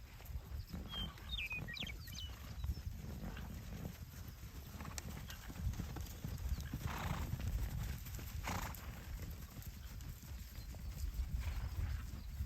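Hooves of a band of wild horses moving over the ground, an irregular patter of many hoofbeats. Two short breathy blasts come a little past halfway, about a second and a half apart.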